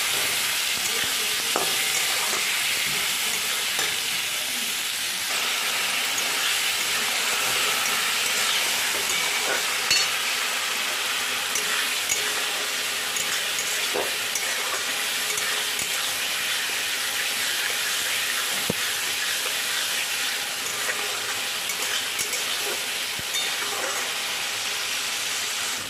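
Spice masala with diced potatoes sizzling in hot oil in a metal kadai, stirred with a metal spatula, with a few light spatula scrapes and taps. The masala is being fried down (koshano) until the oil separates from it.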